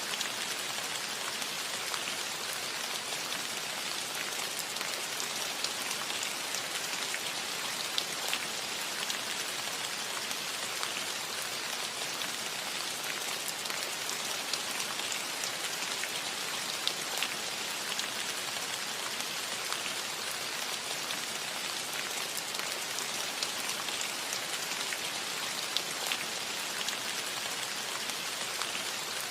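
Steady rain falling on a metal roof: an even hiss with scattered sharper taps of single drops.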